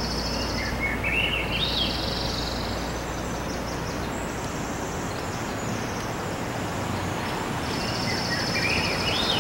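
Outdoor nature ambience: a steady rushing noise with birds chirping over it. A short rising run of chirps comes about a second in and again near the end, and a high buzzy trill sounds at the start and again near the end.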